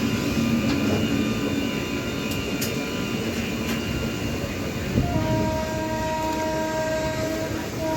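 Express passenger train running, with the steady rumble of wheels on the track heard from on board. About five seconds in, a train horn sounds one long, steady note for roughly two and a half seconds.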